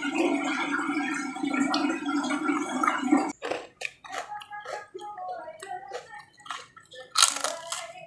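A muffled, low voice-like sound for about the first three seconds, then close-miked eating: wet mouth clicks and chewing crunches of a person eating papaya leaves and petai, with a loud crunching bite about seven seconds in.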